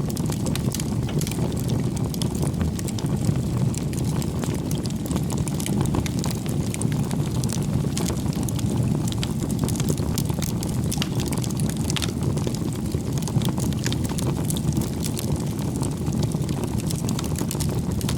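Wood campfire burning: a steady low rush of flames with frequent, irregular small crackles and pops from the burning firewood.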